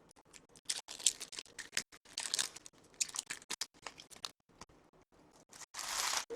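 A trading-card pack's wrapper being torn open and crinkled: a run of short, sharp crackles, with a longer rustle near the end.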